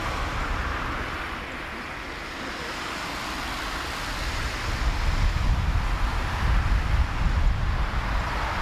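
Low rumble of distant jet engines mixed with wind noise on the microphone, swelling about five seconds in.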